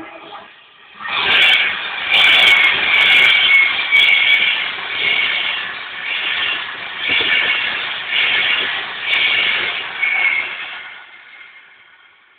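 Class 390 Pendolino electric train running past at low speed: wheel-on-rail noise with high steady tones over it, swelling about once a second. It starts about a second in and fades away near the end.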